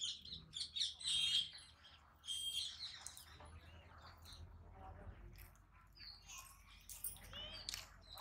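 Small birds chirping in short, high calls, busiest in the first couple of seconds and again near the end, over a faint low hum.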